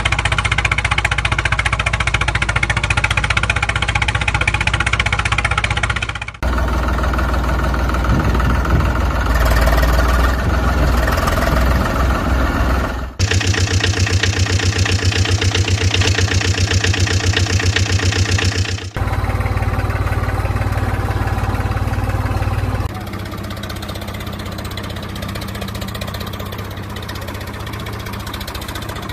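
Tractor engines idling and running steadily, in a series of short clips that cut abruptly from one engine sound to another every few seconds; the last clip is somewhat quieter.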